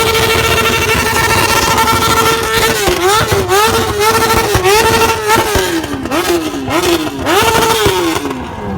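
Motorcycle engine held at steady high revs for about two and a half seconds, then revved in a run of quick blips that rise and fall, sinking lower toward the end.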